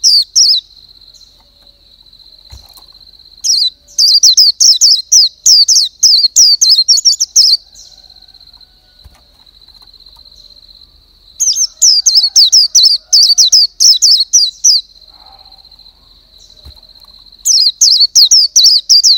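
A bird singing: loud phrases of fast, sharply falling high chirps, each phrase lasting about three to four seconds and coming back every several seconds, over a steady high thin tone.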